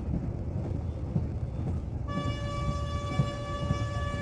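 Train rumbling along the track, then about halfway through the train's horn sounds one long steady blast.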